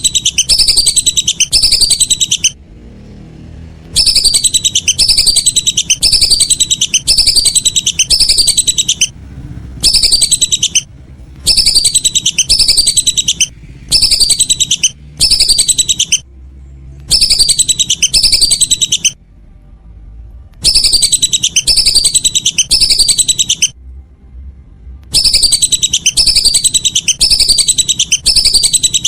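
Lesser whistling duck (belibis) calls: rapid series of high, clear whistles, each note sliding downward. They come in bursts of a few seconds that start and stop abruptly with short gaps between, like a looped call recording played to lure the ducks.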